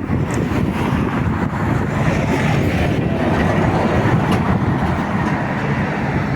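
Road traffic going past close by: a loud, steady rumble of engines and tyres on the road.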